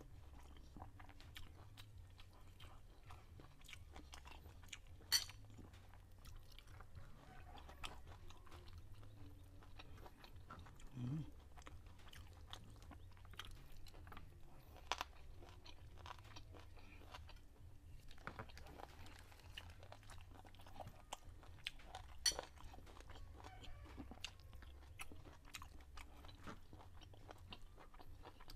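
A person chewing rice and stir-fried chicken gizzards close to a clip-on microphone: soft, faint mouth sounds and small wet clicks. Two sharper clicks stand out, about five seconds in and a little past twenty seconds, and there is a short low hum about eleven seconds in.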